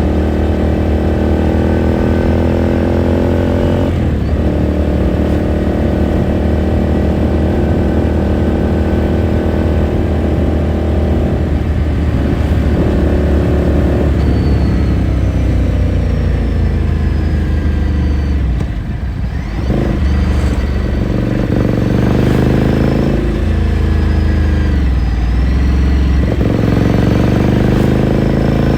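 Ducati Scrambler Sixty2's 399 cc air-cooled L-twin running under way. It pulls up through the revs with a gear change about four seconds in, eases off and slows for a few seconds past the middle, then accelerates again with another shift near the end.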